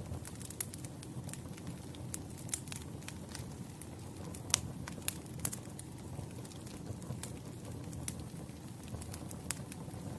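Wood campfire burning with a steady low rumble and irregular sharp crackles and pops from the burning logs, the loudest pop about halfway through.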